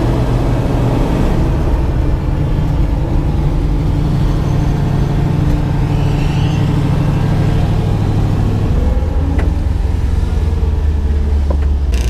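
Twin-turbo 5.3 LS V8 of a 1974 Chevrolet Nova running at low revs, a deep, steady engine note that shifts lower about eight and a half seconds in.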